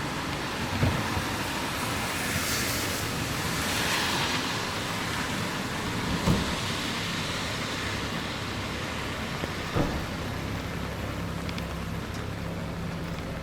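Street traffic in the rain: a steady wash of road noise, with a vehicle's wet tyre hiss swelling and fading a few seconds in. A few short low thumps are heard along the way.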